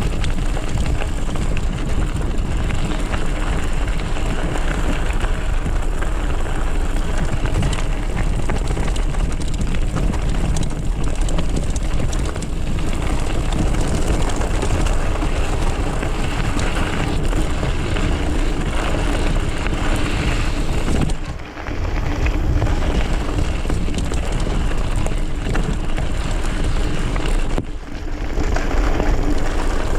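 Loud, steady rush of wind on the microphone with a mountain bike rumbling over a dirt trail while riding. It drops out briefly twice in the second half.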